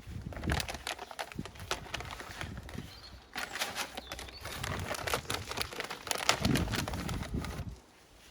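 Bird food rattling and rustling as it is poured out of a bag, with knocks and clatter from handling the feeders; two busy spells of rapid clicking, the second stopping shortly before the end.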